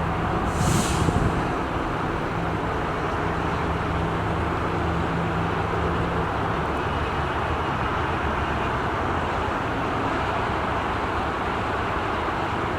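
Steady engine noise with faint low hum tones, and a short high hiss less than a second in.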